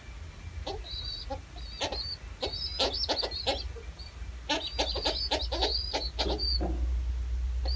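Birds calling: a run of short, high chirps mixed with short, lower calls, over a steady low rumble.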